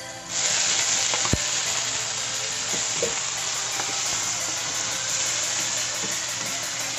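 Chopped tomatoes dropped into hot oil with sautéing onion and garlic in a kawali, setting off a loud sizzle about a quarter second in that carries on steadily as a spatula stirs them. A single knock sounds a little over a second in.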